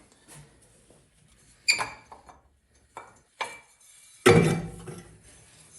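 Metal engine parts handled and set down on a workbench: a few separate clinks and knocks, then a louder ringing metal clank about four seconds in.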